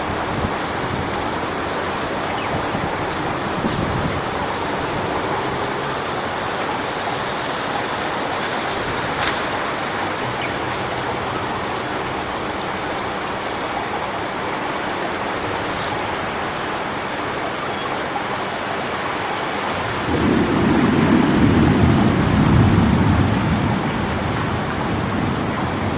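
Strong wind rushing steadily through coconut palm fronds ahead of a storm. About twenty seconds in, a louder low rumble swells for around three seconds.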